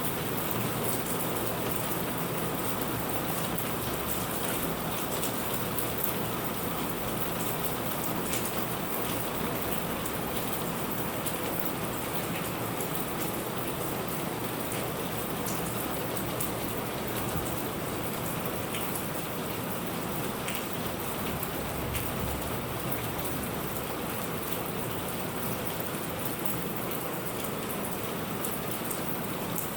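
Steady heavy rain falling, an even hiss with many sharp ticks of single drops striking a surface.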